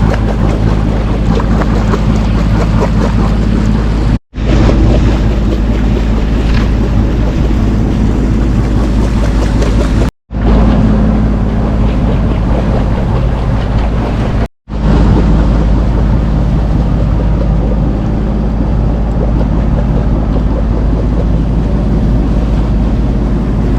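A sailing yacht's engine running steadily while motoring slowly under way, a loud low drone that holds one even pitch. It drops out abruptly three times, briefly each time.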